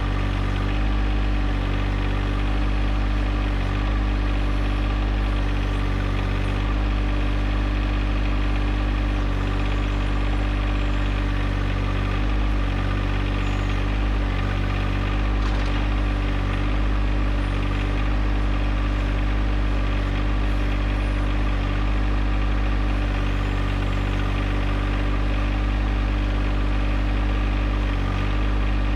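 Compact tractor's small three-cylinder diesel engine running steadily, its note shifting slightly every second or two.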